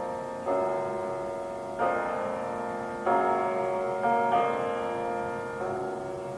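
Classical piano music: slow sustained chords, a new chord struck roughly every second and a half.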